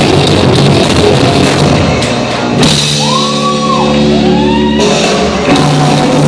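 Rock band playing loudly live, with drums, electric guitars and shouted vocals. A little over two seconds in, the band drops to a held, ringing chord with bending notes over it for about two seconds, then the full band comes back in.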